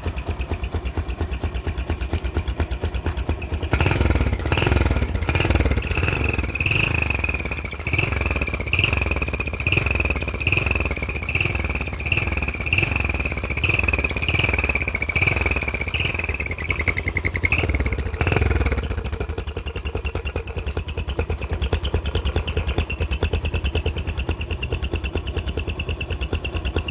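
Motorcycle engine fitted with a homemade Coca-Cola-can exhaust silencer, idling and then revved in a long run of short throttle blips, about one a second, before settling back to idle.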